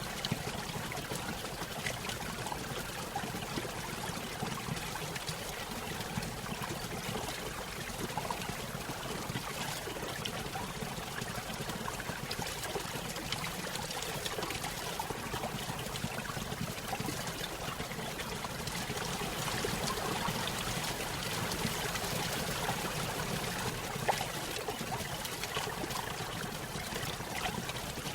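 Small stream spilling over a little waterfall: steady trickling and splashing water with many small drips and plinks.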